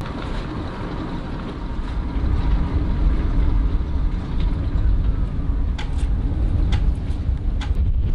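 Sailboat's electric anchor windlass running steadily, paying out more anchor chain, with a few sharp clanks from the chain in the last couple of seconds.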